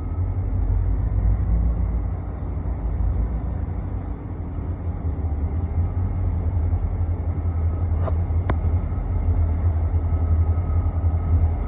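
Diesel locomotives of a Reading & Northern freight train working hard up a steep grade: a heavy, steady low rumble with a faint wavering high whine over it. Two sharp clicks come about eight seconds in.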